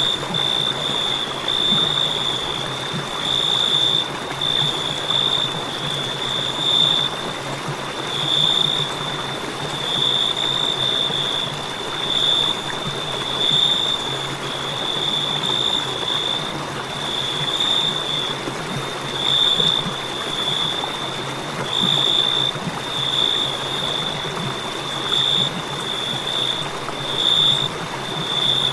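Crickets chirping in a steady high trill that swells in pulses about once a second, over a constant hiss.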